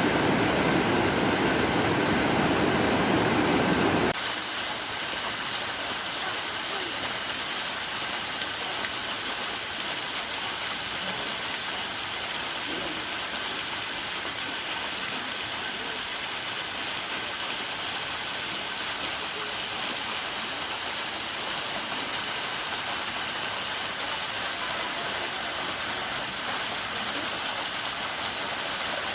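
Waterfall rushing in a steady wash of noise. It is louder and fuller for about the first four seconds, then drops to a thinner, even rush.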